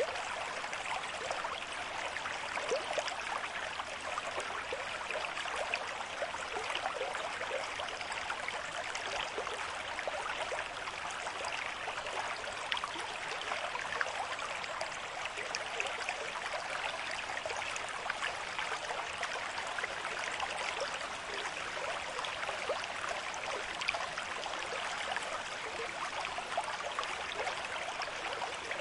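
River stream with moderate flow, water rushing and babbling over stones in a steady, even wash with many small splashes.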